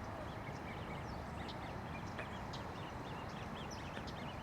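Small birds chirping, many quick high calls several times a second, over a steady low background rumble.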